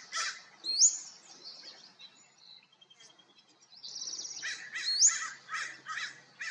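A bird calling in a varied series: harsh call notes, a whistle sweeping upward about a second in and again about five seconds in, and quick buzzy rattles.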